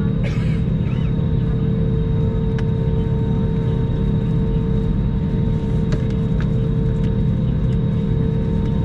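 Steady cabin rumble and hum inside an Airbus A321 on the ground, with its engines running at idle after start, and a brief faint chirp just after the start.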